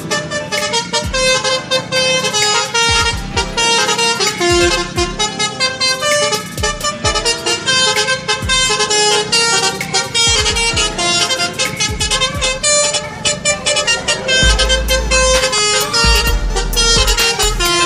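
Bus horns of the Indonesian multi-tone 'telolet' kind, playing quick runs of melodic toots one after another over a low steady rumble.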